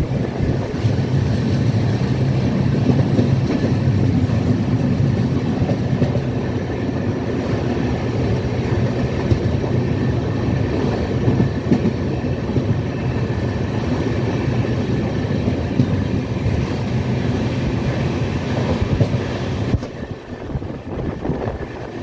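Indian Railways train running along the track, a steady loud rumble of the coaches and wheels on the rails. The noise drops sharply about two seconds before the end.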